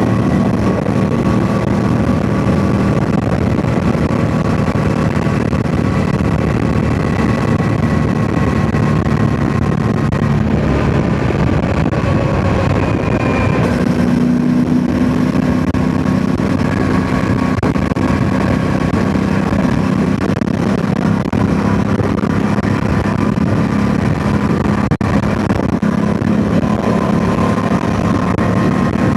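Yamaha MT-07's 689 cc parallel-twin engine running steadily under way, with wind buffeting the microphone. The engine note changes about halfway through, then holds steady again.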